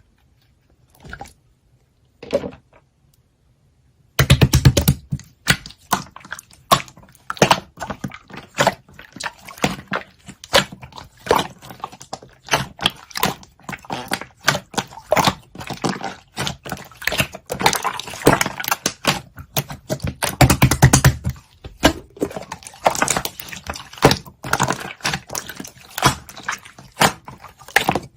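Slime being squished and pressed by hand, giving a dense, irregular run of crackles, clicks and wet pops that starts about four seconds in.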